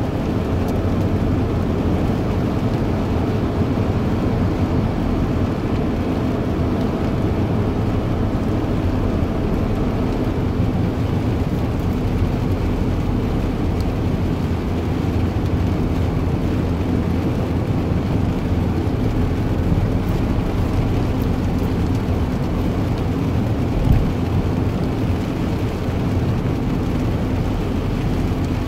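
A steady low engine drone with a faint hum, unchanging throughout.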